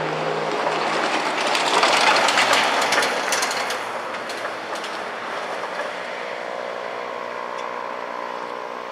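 Freight train on the rails: a steady rumble with wheel clicks and clatter, loudest about two seconds in, easing to a steadier hum with faint steady tones as a Norfolk Southern diesel locomotive leads a container stack train toward the camera.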